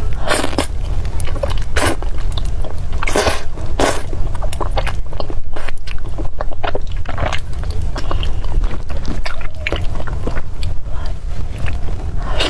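Close-miked eating sounds: irregular bites and chewing, with a few louder crunching or slurping bursts, over a steady low hum.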